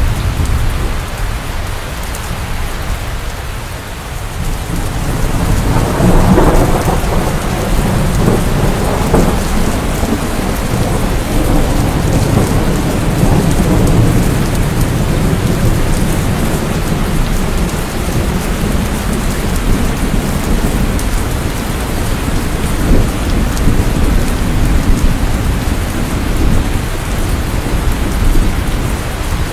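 Steady rain of a thunderstorm with low rumbling thunder; a louder peal of thunder about six seconds in rolls on and fades over several seconds.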